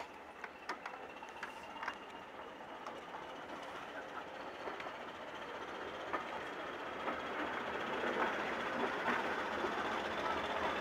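Railway coaches rolling slowly alongside a platform, their wheel and running noise growing steadily louder as they come closer. A few sharp clicks sound in the first couple of seconds.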